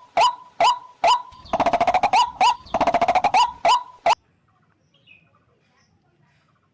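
White-breasted waterhen calling: a loud, monotonous series of sharp notes about three a second, twice overlaid by a fast rattling trill. The calling cuts off suddenly about four seconds in.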